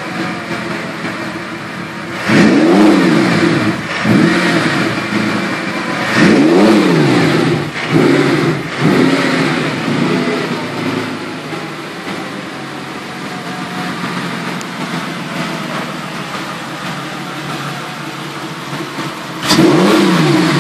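Volkswagen W12 engine, freshly installed in the van, running on its first start: revved in a series of short blips over the first nine seconds, then idling steadily, and revved again near the end.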